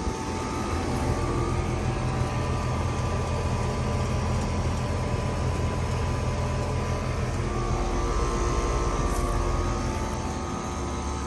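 Outdoor heat pump units running: a steady low compressor hum with fan noise and a few steady whining tones, swelling slightly after the start and easing a little near the end.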